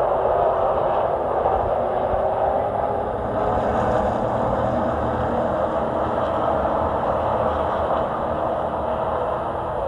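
Chevrolet short-track race truck under way at racing speed: a steady, loud engine and road noise with no clear rise or fall, heard from the racing truck.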